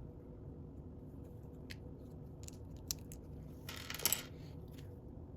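Small plastic Lego pieces clicking as they are handled, a few separate clicks followed by a short, louder clatter about four seconds in.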